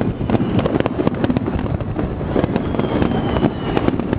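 Fireworks finale: a dense, unbroken barrage of aerial shell bursts, many bangs and crackles overlapping one another.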